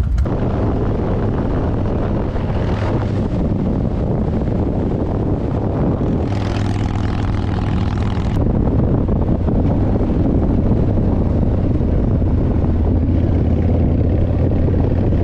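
Harley-Davidson V-twin motorcycle engine running steadily while riding, with a brief change in its tone about six to eight seconds in.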